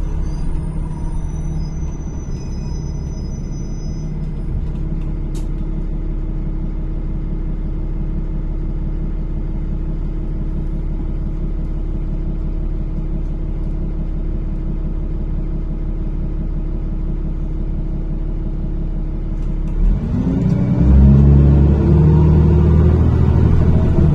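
NefAZ-5299 city bus engine heard from inside the passenger cabin: a steady low rumble at low revs for most of the time, then climbing in pitch and loudness about twenty seconds in as the bus accelerates.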